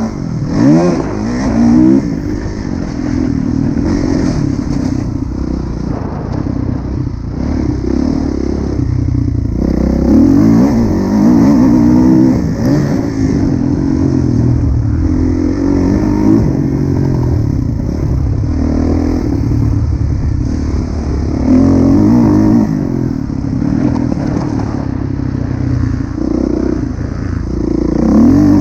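Kawasaki KX450F motocross bike's four-stroke single-cylinder engine, loud throughout, revving up and dropping back again and again as it accelerates and is backed off.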